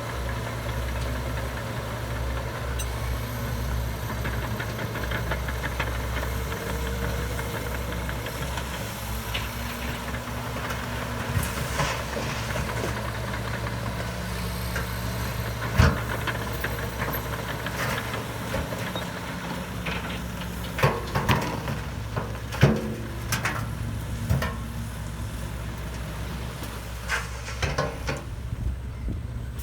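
Komatsu D61EX bulldozer's diesel engine running steadily, with sharp clanks several times, the loudest about halfway through and a cluster a few seconds later.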